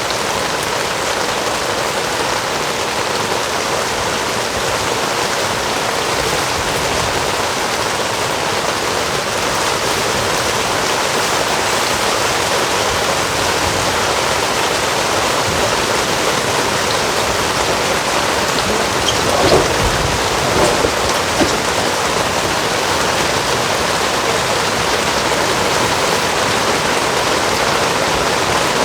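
Heavy rain pouring down steadily, with a few short knocks about two-thirds of the way through.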